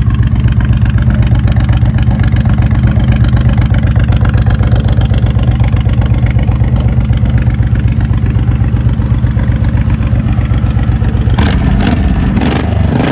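Honda VTX 1800N's liquid-cooled V-twin running at a steady idle. About eleven seconds in, the steady sound gives way to shifting pitch and a few sharp cracks.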